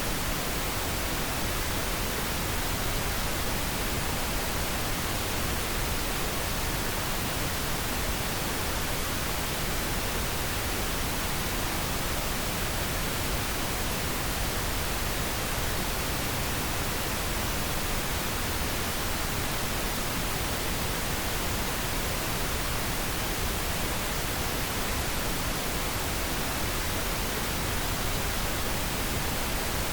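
Steady pink noise: an even, unchanging hiss spread across the whole range, with no other sound.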